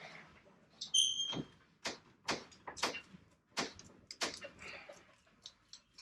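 Livin' Lite TC1 truck camper being shoved along plastic pallets into a truck bed: a short high squeak about a second in, then a string of sharp knocks and creaks as it shifts.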